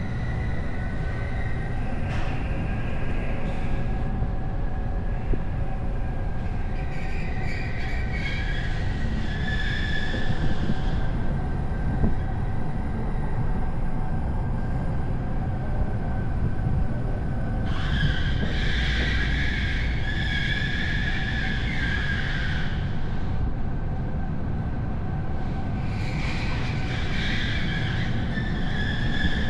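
A car's running noise while driving: a steady low rumble of engine and tyres. Higher whining tones come and go three times, around a quarter of the way in, past the middle and near the end.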